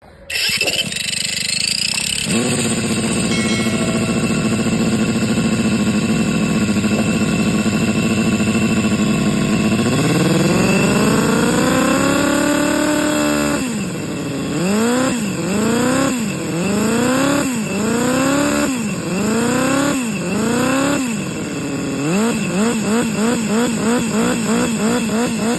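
Vehicle engine idling steadily, then revved up in one long rise and held, then blipped repeatedly with each rev rising and dropping back. Near the end it is blipped quickly, about three revs a second.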